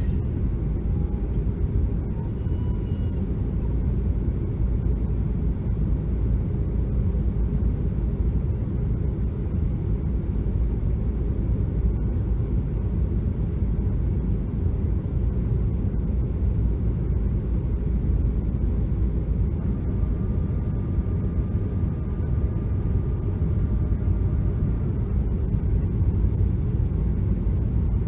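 Steady, deep rumble of a fixed-wing aircraft in flight, as heard inside the cabin, holding an even level throughout.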